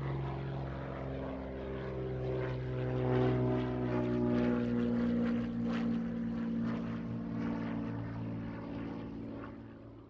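Propeller airplane's piston engine droning past, its pitch dropping slightly as it goes by, then fading out near the end.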